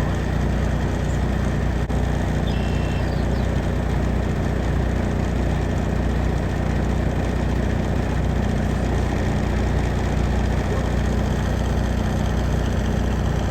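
Semi-truck diesel engine idling steadily, an even low hum with no change in speed.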